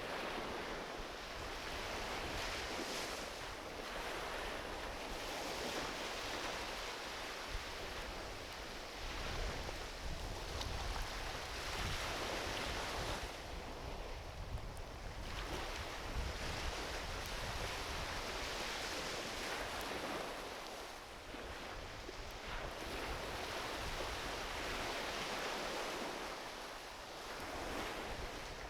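Small ocean waves washing onto a beach, swelling and easing every few seconds, with a few faint pops from a driftwood campfire.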